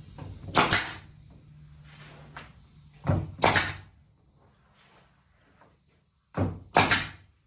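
Wooden blocks cut from half-inch wood being set down on a workbench: three pairs of sharp wooden knocks, about a second in, about three seconds in and near the end.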